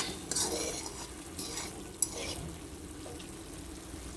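A spoon stirring and scraping in a cooking pot, in a few short strokes, with a sharp clink against the pot about two seconds in.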